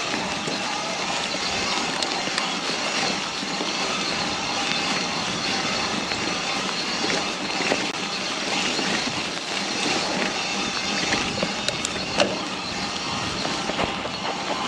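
A mountain bike riding down a wet, muddy trail: a steady rush of tyre and riding noise with a few scattered clicks and knocks.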